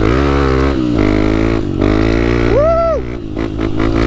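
Motorcycle engine running under way, its pitch rising and falling as the throttle changes. A short tone rises and falls back a little past the middle.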